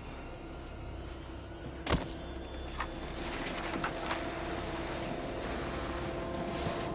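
Film soundtrack: a low subway rumble with one sharp, loud impact about two seconds in, then a few lighter knocks as the rumble grows louder and a steady hum comes in.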